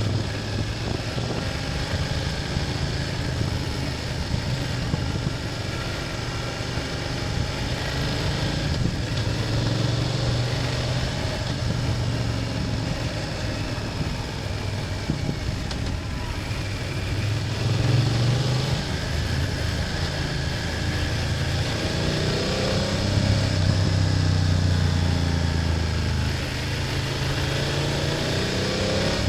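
BMW F800GS parallel-twin engine running under way, its revs rising and falling with the throttle and climbing twice in the second half, over steady road and wind noise.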